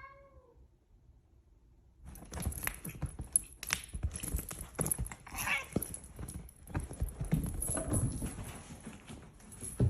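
A house cat gives one short meow at the start. From about two seconds in there is a longer stretch of irregular clattering, knocking and rustling, louder than the meow, under a faint high hiss.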